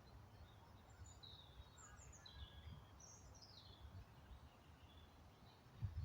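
Faint birdsong: a few short chirping phrases in the first half, over a low background rumble. A low thump near the end.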